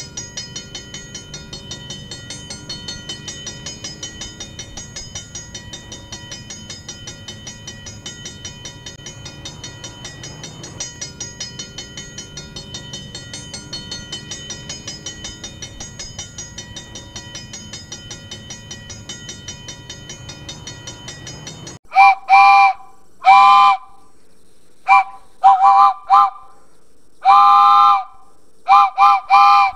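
A train running with a steady rhythmic, ringing clatter of about four beats a second. After an abrupt cut about two-thirds of the way in, a train sounds a multi-tone whistle in a series of loud short and long blasts.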